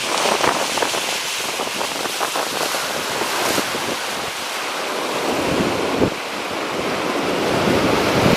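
Strong wind buffeting the microphone over the steady wash of sea surf, with a few harder gusts knocking on the microphone.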